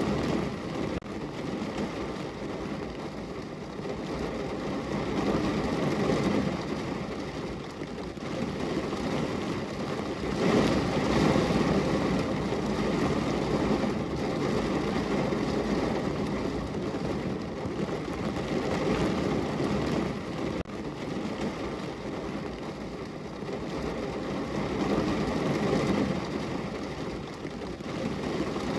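Steady rain heard against a window, a low, even rushing that swells and fades every few seconds.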